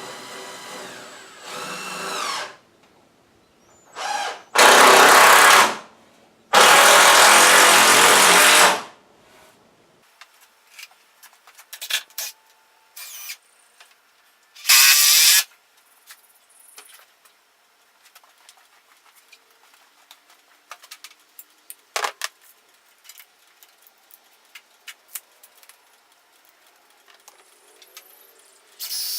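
Power drill running in a few loud bursts of one to two seconds, driving fasteners into the wooden frame, then scattered short clicks and knocks of handling.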